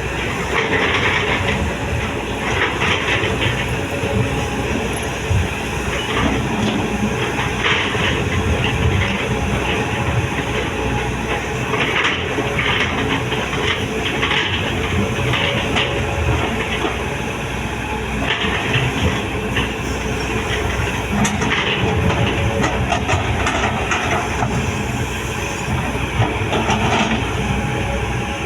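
Heavy machinery running steadily, with irregular rattling and clanking surges every couple of seconds.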